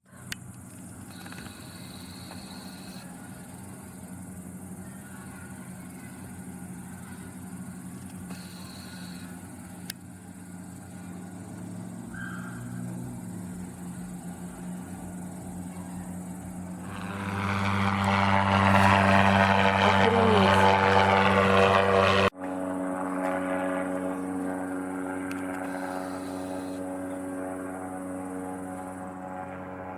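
An engine drones steadily, growing much louder for about five seconds past the middle, then cuts off suddenly and carries on at a lower, steady level.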